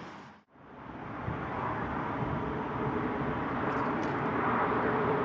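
Brief cut to silence, then steady outdoor background noise with a faint hum, typical of distant road traffic, fading in.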